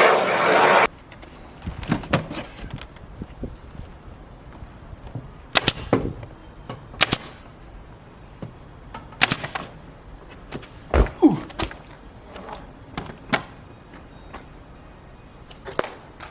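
A loud steady running noise cuts off suddenly just under a second in. Then come scattered sharp knocks and clicks, a few of them loud, spaced a second or more apart over a faint background.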